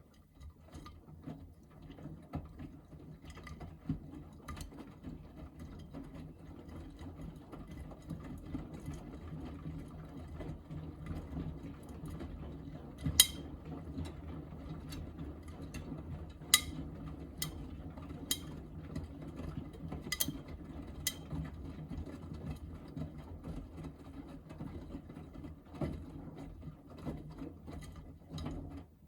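Miele front-loading washing machine drum tumbling a wet load in the heated main wash: a steady motor hum with the load churning and a constant patter of small clicks. A few louder sharp clicks come in the middle.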